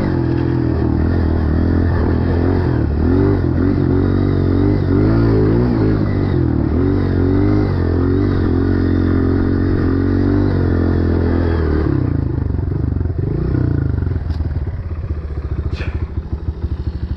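Dirt bike engine running under load, its revs rising and falling repeatedly as the throttle is worked over rough ground. About twelve seconds in it settles to a slower, even putter at lower revs.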